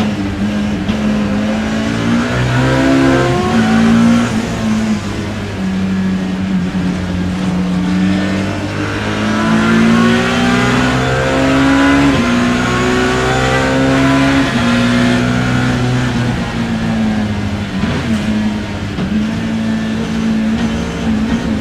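BMW E30 M3 racing car's four-cylinder engine heard from inside the cockpit, accelerating hard with the pitch climbing and dropping back at each upshift, several times over, between steadier stretches.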